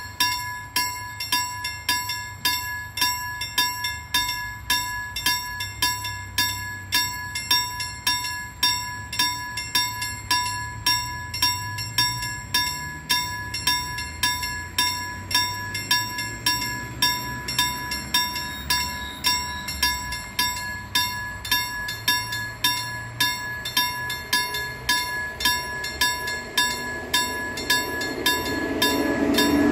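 Level crossing warning bell ringing in quick, even strikes, about one and a half a second. The low rumble of an approaching train sits underneath and grows louder near the end.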